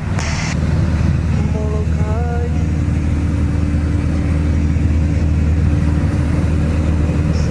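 Piston engine and propeller of a small single-engine airplane droning steadily in the cabin at cruise, with a brief hiss at the start and a steady higher tone joining about two and a half seconds in.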